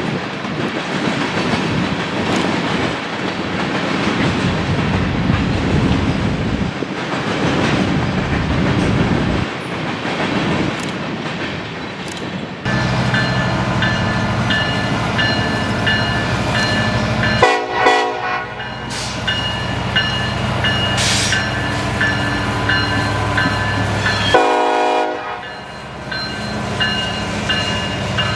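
A train rolling past with steady rail and wheel noise, then about halfway through a diesel locomotive's horn comes in suddenly as a steady chord over the engine's drone, sounding in long blasts with two brief breaks.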